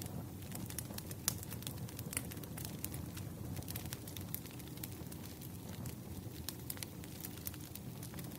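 Wood fire burning, with a steady low rumble of flames and frequent sharp, irregular crackles and pops of burning firewood.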